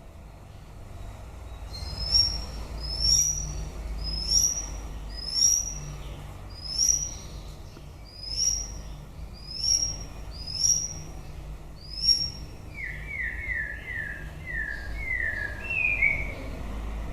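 White-rumped shama singing: a series of about ten short rising whistles, roughly one a second, then a quick run of falling notes near the end.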